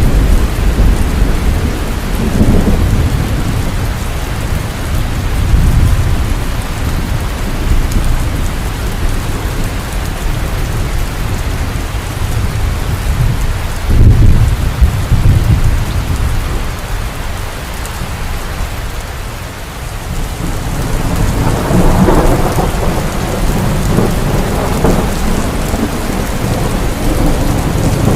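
Heavy rain falling steadily, with thunder rolling in low rumbles through it: the loudest clap about 14 seconds in, and a crackling peal starting a little past 20 seconds.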